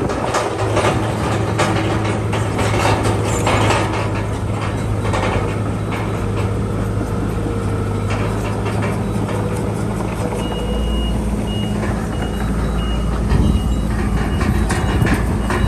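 Heavy diesel machinery working: a bulldozer engine running steadily under load, with track clatter early on. About two-thirds of the way in, a reversing alarm starts beeping at a steady pace.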